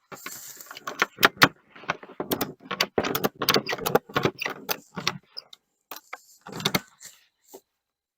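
Irregular clattering: a rapid, uneven run of sharp clicks and knocks, with short pauses, that stops about seven seconds in.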